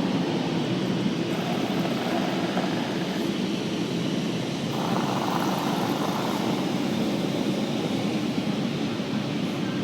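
Automatic car wash machinery running, heard from inside the car: a steady rushing noise, with a brighter hiss for a second or two about five seconds in.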